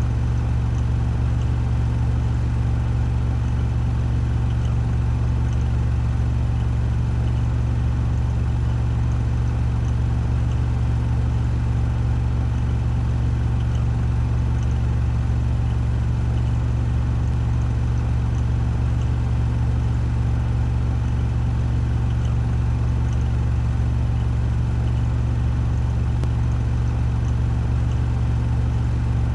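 Washing machine spinning at 1400 rpm on its spin cycle: a steady, unchanging deep hum with a whirring spread above it.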